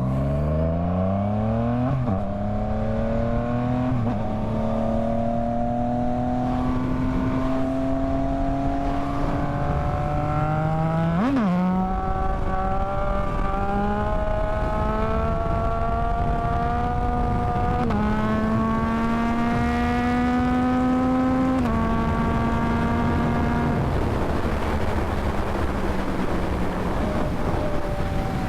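Yamaha MT-09 inline-three engine accelerating up through the gears: its note climbs in each gear and drops back at each upshift, with a quick spike in pitch about eleven seconds in. Near the end the engine note fades into wind rush as the throttle eases off.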